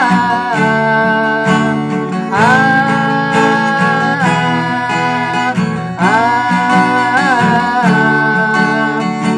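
Capoed acoustic guitar strummed through a song bridge (Am, C/G, G, D), with a man singing long held notes that slide up into pitch.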